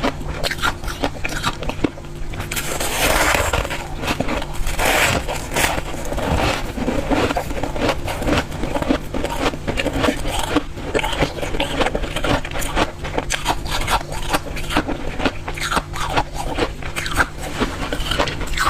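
Close-miked crunching of powdery freezer-frost ice, a continuous run of crisp crunches and crackles, thickest a few seconds in. A steady low hum runs underneath.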